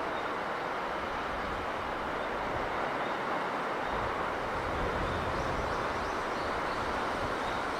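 Steady sea breeze with the sea's wash behind it, and low gusts buffeting the microphone.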